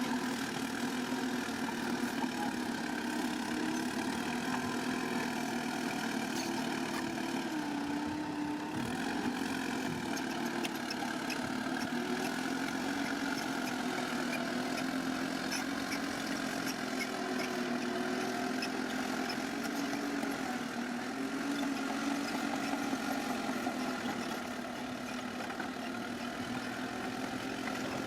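Bulldozer's diesel engine running steadily, its note rising and dipping a little now and then, and slightly quieter near the end.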